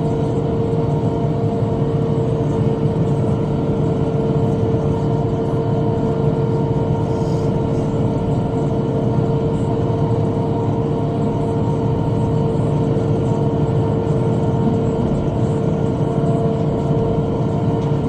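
Tractor engine running steadily under load while driving a rotary cutter (bush hog), with a constant pitched whine over the engine noise.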